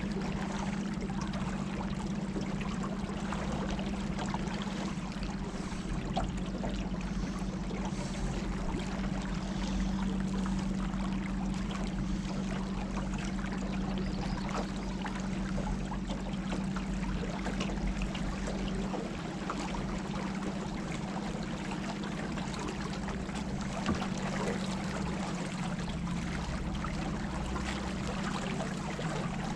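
Colorado River water rushing and splashing steadily around a small boat, with a steady low hum underneath.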